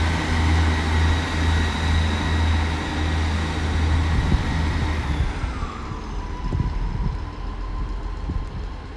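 Diesel multiple unit departing under power: a pulsing diesel engine drone with a high steady whine. About five seconds in the drone drops away and the whine falls in pitch and fades as the train moves off.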